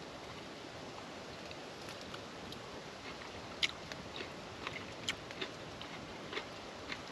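A person chewing a mouthful of rice-and-Spam sushi: soft, irregular clicks over a faint steady hiss.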